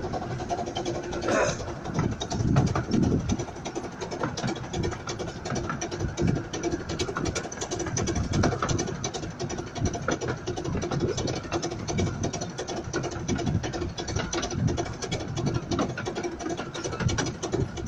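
Miniature steam railway train running along the line, heard from an open carriage: a steady rattle and clatter of the carriage wheels on the track, full of small irregular knocks.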